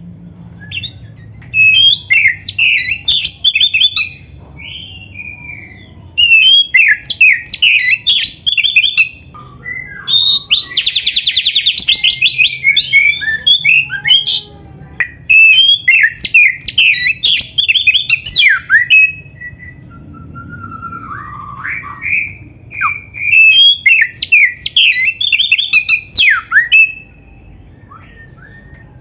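Oriental magpie-robin (kacer) in full, varied song: loud phrases of rapid whistles, slurred notes and chatter, separated by short pauses, with a fast even trill about ten seconds in and a lower, softer phrase past the middle. The singing stops about two seconds before the end.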